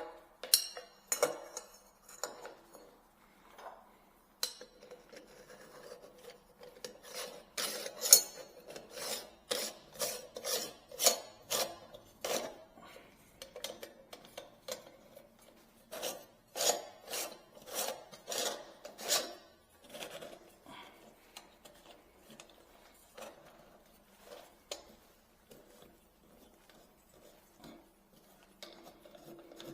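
Sharp metallic clinks and knocks of tools and fittings against a kitchen sink during installation work. They come in runs of about two a second, then thin out near the end.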